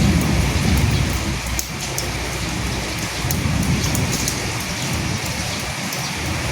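Steady rain falling on a surface, with scattered individual drops ticking and a low rumble that swells and fades.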